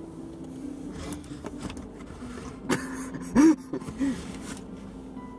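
Low steady hum of a car's engine idling, heard from inside the cabin, with a few short laughs and cries about halfway through; the loudest comes a little past the middle.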